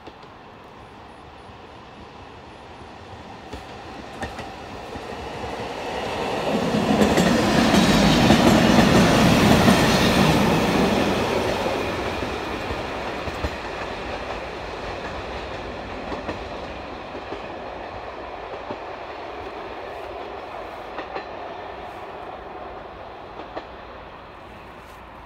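Blue two-car vintage railcar passing by on the track: it grows louder as it approaches, is loudest about eight to ten seconds in, then fades as it moves away, with the wheels clicking over the rail joints.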